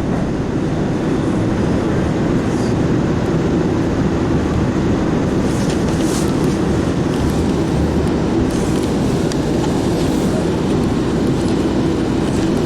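MBTA Blue Line Siemens 700 Series subway car running along the track, heard from inside: a steady rumble of wheels and motors with no letup.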